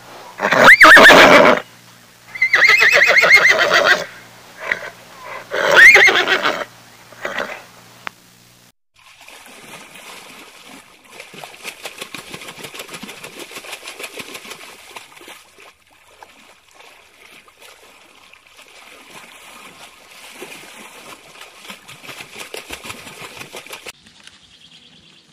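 Horse neighing: three loud whinnies in the first seven seconds or so. After that comes a long, much quieter stretch of fine crackling and rustling.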